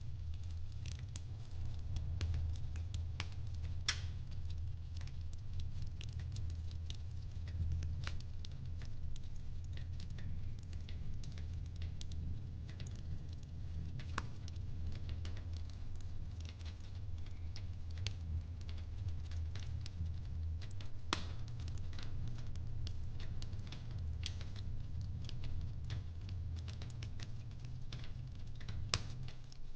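Fireplace crackling: irregular sharp pops and snaps over a low steady rumble.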